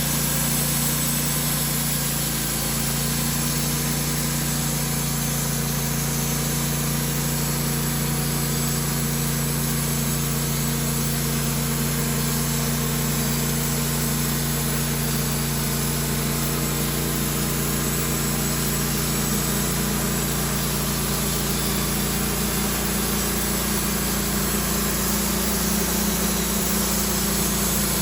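Engine running steadily at an even speed, with no change in pitch or load.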